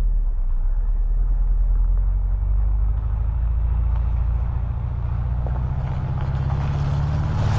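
1991 Volkswagen Vanagon Syncro driving: a steady low engine and road drone, a little louder near the end.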